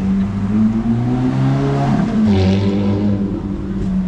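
A car engine accelerating on the street close by. Its pitch rises for about two seconds, steps down as if on a gear change, then holds steady.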